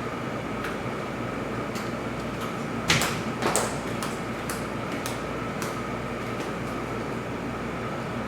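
Steady background hiss and low hum with scattered faint clicks, and a couple of louder knocks about three seconds in, like something being handled or a door or cupboard being moved.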